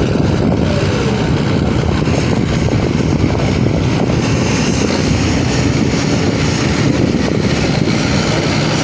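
Farm tractor engine running loud and steady, a continuous heavy drone of a pulling tractor.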